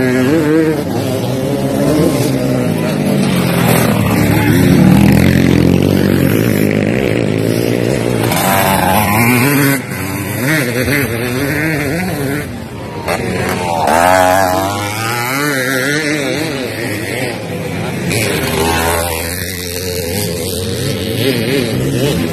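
Motocross dirt-bike engines revving, several at once, their pitch rising and falling as riders open and close the throttle and shift. The sound is loudest about five seconds in.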